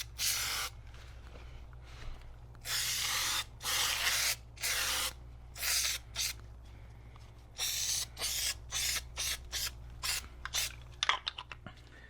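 Aerosol can of spray adhesive spraying in a series of separate bursts: several lasting up to about a second, then a quick run of short spurts near the end.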